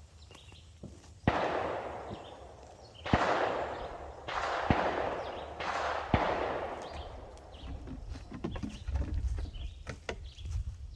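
Four gunshots, irregularly about a second and a half apart, each followed by a fading echo; after them, small scattered clicks and knocks.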